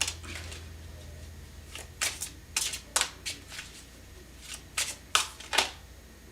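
Deck of tarot cards being shuffled by hand, with clusters of crisp card snaps and flicks.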